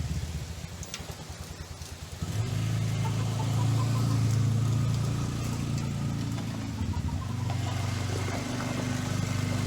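Four-wheeler (ATV) engine running at a low, chugging idle, then picking up about two seconds in and running steadily.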